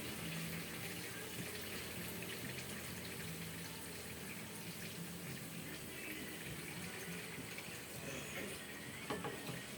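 Water running steadily in a kitchen, as from a tap, with a short falling squeak near the end.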